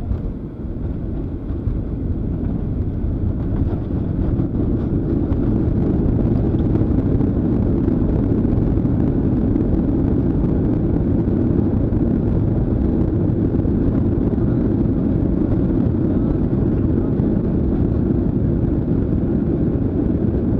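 Boeing 737-800 cabin noise: a steady low rumble of the jet engines and airflow heard from inside the cabin, building over the first several seconds and then holding.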